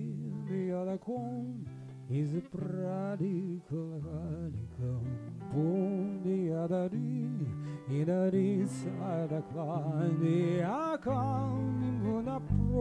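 Live band music: guitar with a wavering, vibrato-laden melody line and some singing over sustained low notes, with heavy bass notes coming in near the end.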